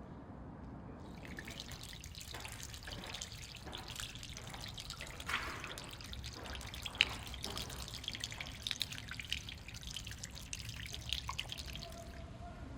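Water dripping and trickling, irregular drops with one sharper drip about seven seconds in.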